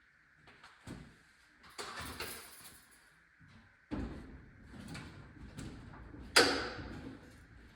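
Metal clanks, knocks and scraping as an engine hanging from a shop hoist is worked free of a car. There are several separate knocks, a low rumble from about four seconds in, and a loud sharp clank near the end.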